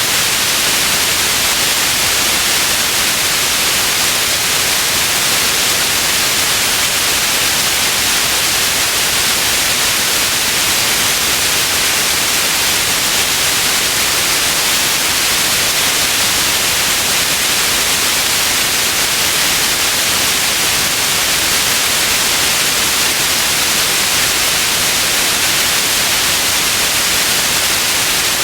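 Steady, unbroken white noise, a loud even hiss that is strongest in the high range and never changes.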